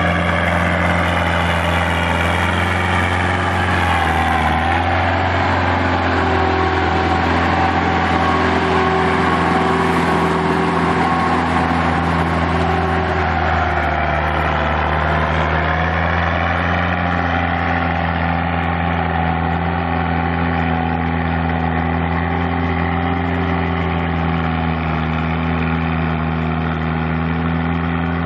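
Belarus 421 tractor's diesel engine running steadily at a low speed, its pitch drifting slightly a couple of times.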